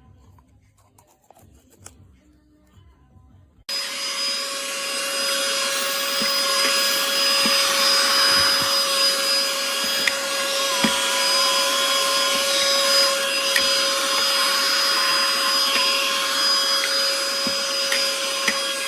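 Bissell AeroSlim cordless handheld vacuum switching on about four seconds in and running steadily: a constant high motor whine over airflow hiss, with a few short ticks.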